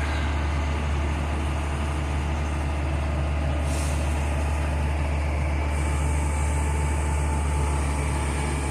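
Heavy diesel truck engine idling steadily, a constant low rumble.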